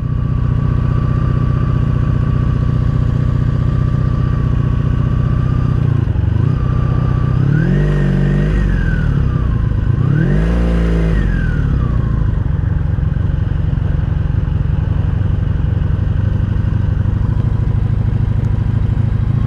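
The 1983 Honda Sabre VF750S's V4 engine idling, blipped twice about seven and ten seconds in, each time rising in pitch and falling back to idle. The rider hears a valve tap at idle and thinks it is valve tap.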